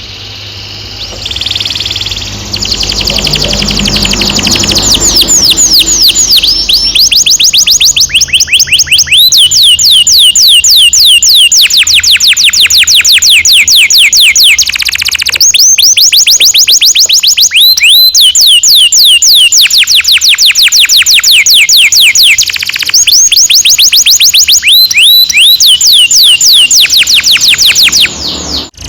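Domestic canary singing long rolling trills: fast runs of identical, quickly falling notes repeated many times a second, broken now and then by brief pauses and a change to another trill. Below the song, a low rumble runs through the first few seconds.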